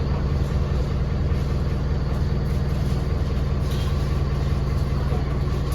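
Vehicle engine running steadily: a constant low drone with no change in speed.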